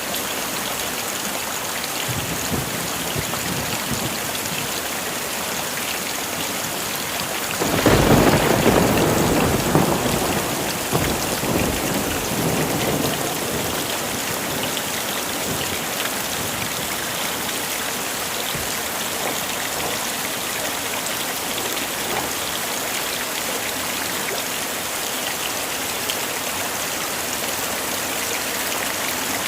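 Heavy rain falling steadily, with a thunderclap about a quarter of the way in that rumbles on for several seconds before fading back under the rain.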